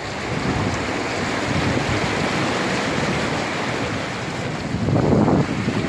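Steady rushing wash of floodwater around a vehicle moving through it, with wind buffeting the microphone; the rush swells briefly about five seconds in.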